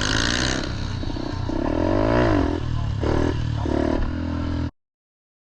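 Small pit bike engine revving, its pitch rising and falling, with a couple of short throttle blips. The sound then cuts off suddenly near the end.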